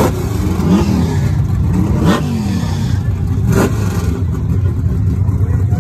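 Loud drag-racing engine with a heavy low rumble, revved up and dropped back three times about a second and a half apart.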